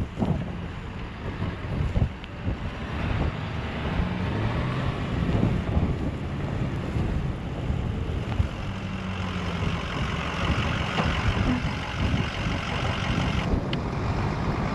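Blizzard wind rushing and gusting across the microphone, with a vehicle engine running low underneath.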